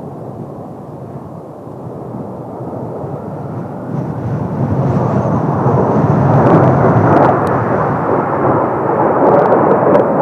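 Kawasaki T-4 jet trainers' turbofan engines roaring overhead as the formation approaches, the roar growing steadily louder, with a faint high whine in the middle.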